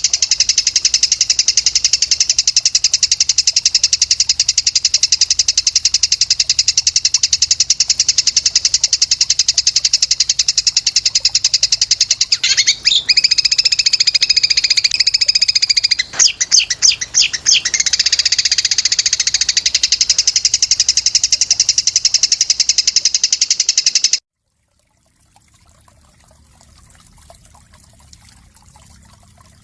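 A songbird's rapid, unbroken, high-pitched trill of the kind played as masteran to train cage birds, with quick chirps breaking in over it midway. It cuts off suddenly near the end, leaving only a faint background.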